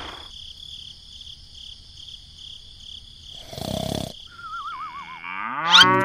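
Cow moo sound effect, its pitch rising into a long loud call in the last second. Before it comes a short noisy burst about three and a half seconds in, then a wavering whistle falling in pitch. The first three seconds hold only a faint high pulsing tone.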